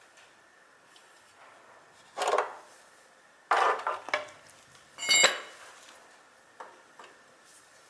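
Small metal parts and tools clattering as they are handled and set down: three short bouts of knocks, about two, three and a half and five seconds in, the last and loudest with a brief metallic ring.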